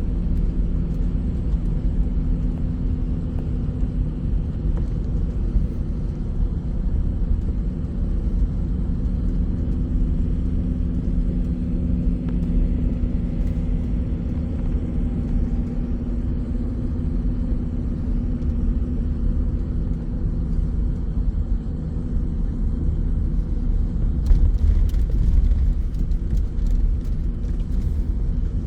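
Steady low rumble of a moving bus's engine and road noise, with a brief spell of clicks or rattles near the end.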